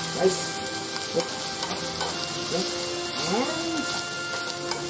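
Fried rice with shrimp sizzling steadily in a hot pan as it is stirred, the spatula scraping and tapping against the pan about once a second.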